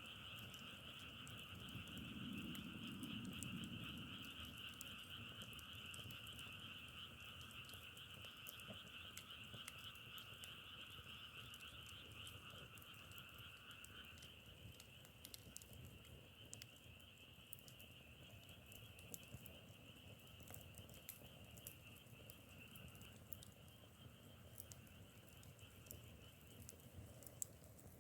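Faint, steady frog chorus calling at two pitches; the lower-pitched voices drop out about halfway through while the higher ones carry on. Scattered faint clicks sound over it.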